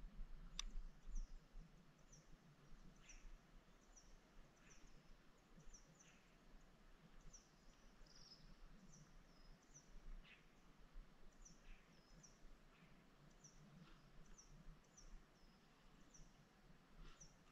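Near silence, with faint, high bird chirps repeating every half second or so and one sharp tick just after the start.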